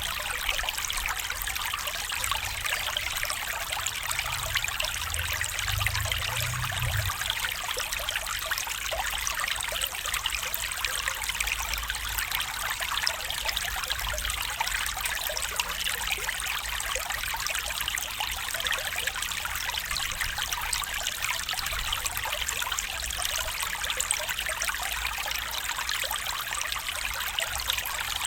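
Stream water running and trickling steadily over rocks, a dense even splashing and babbling with no let-up.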